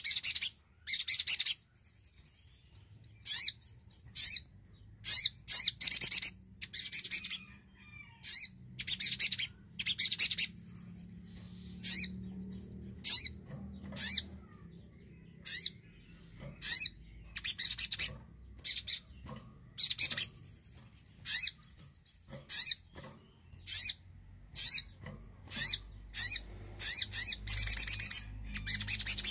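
Sogon, a small nectar-feeding songbird, calling in short bursts of rapid, high-pitched chattering notes, repeated roughly once a second, with a thin high tone heard faintly between the bursts.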